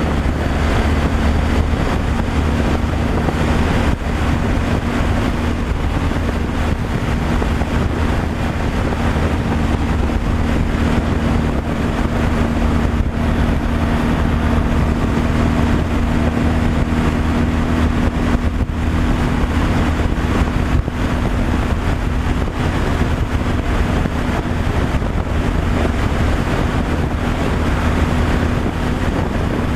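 A truck driving at steady speed: the engine hums evenly under continuous road and wind noise.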